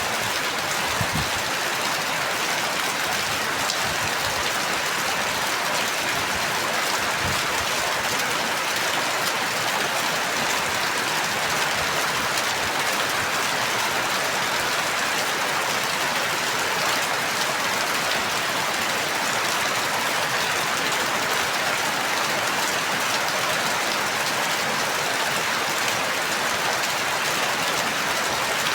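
Steady rain falling, an even hiss of drops on a surface, with a few faint low thuds in the first several seconds.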